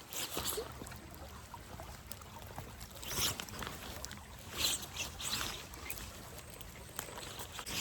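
Small woodland creek trickling steadily into a pond, with a few brief rustles over it.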